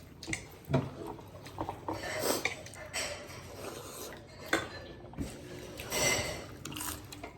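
Plates and utensils clinking and scraping during a meal, with a scatter of sharp clicks and short scrapes.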